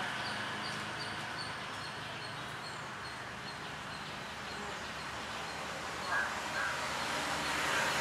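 Birds calling: a quick, regular series of thin high notes, then louder short calls repeated about twice a second from about six seconds in.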